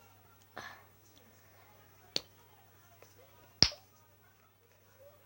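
Two sharp pops made with a finger pressed and pushed down under the chin, about a second and a half apart, the second louder.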